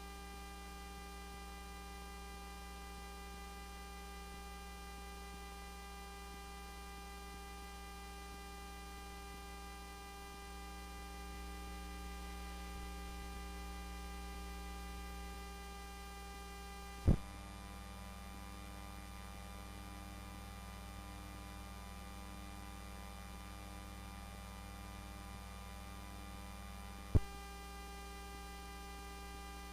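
Steady electrical mains hum with a long ladder of overtones. Two sharp clicks come about seventeen and twenty-seven seconds in.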